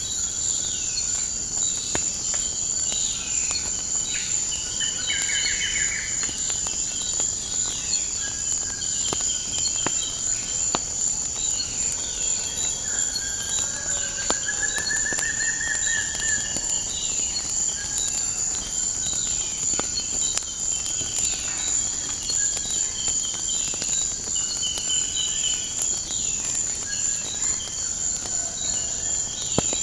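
A steady, high-pitched chorus of crickets runs throughout. Over it come repeated short falling bird chirps and a couple of brief trills, about five seconds in and around fifteen seconds in. Scattered sharp pops of a crackling fireplace fire sound through it all.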